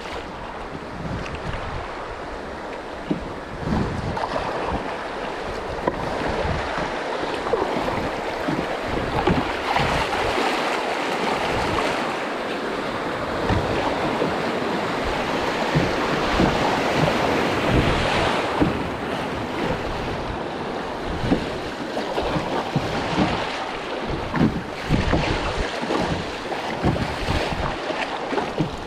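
River water rushing around a moving canoe, with wind buffeting the microphone in irregular low thumps.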